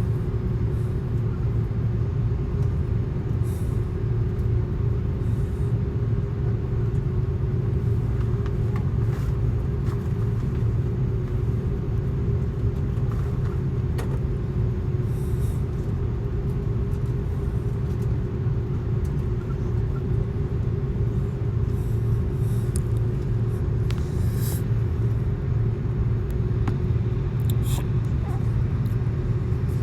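Steady low rumble of cabin noise inside an Airbus A330-200 airliner, with a constant hum and a few faint clicks and rattles.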